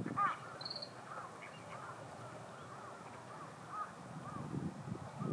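Gadwall flock calling: a string of short calls repeating about every half second, with a louder call at the start and a brief higher whistle about a second in.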